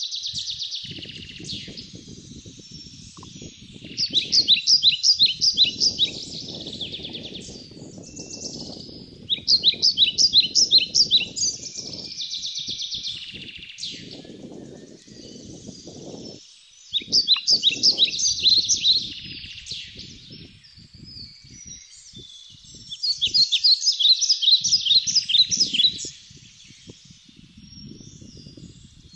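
A songbird singing loud, high phrases of rapid repeated notes, about every six seconds, with softer twittering between them. Low rumbling noise comes and goes beneath.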